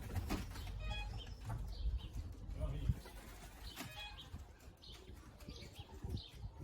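Racing pigeons cooing and chirping in the loft, over a low rumble and a few knocks.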